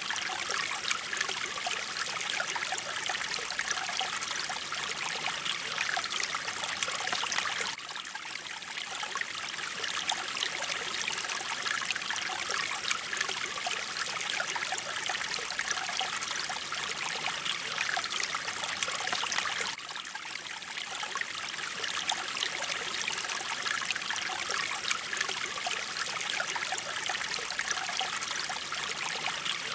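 Mountain stream water flowing and splashing steadily over rocks. The level drops abruptly twice, about 8 and 20 seconds in, and quickly builds back.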